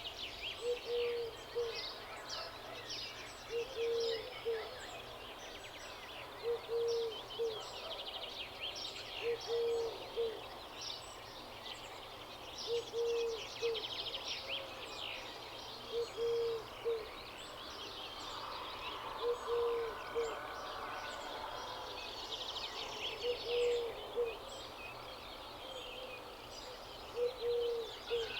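A chorus of songbirds chirping and trilling, with a low two-note hooting bird call repeated about every three seconds.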